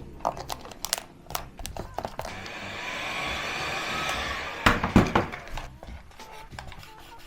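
Handheld hot-air blower running steadily for about two and a half seconds, heating vinyl wrap film so it stretches over the car body. Small clicks and knocks of handling come before it, and a few loud knocks follow just after it stops.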